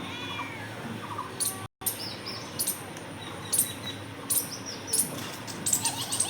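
Birds chirping, with short high calls and rising-and-falling chirps over a steady outdoor background. The sound cuts out completely for a moment about two seconds in.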